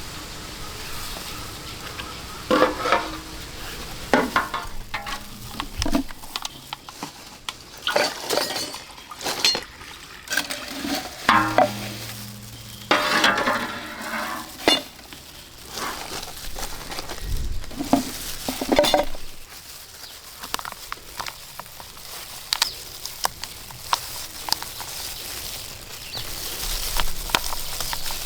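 Kitchen cooking sounds: a utensil clattering and scraping against cookware at irregular moments over a steady frying sizzle.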